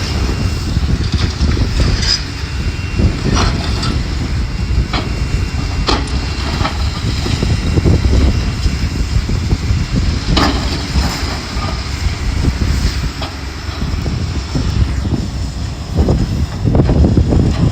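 Heavy demolition machinery running with a steady low rumble, with sharp clanks and knocks of debris at uneven intervals.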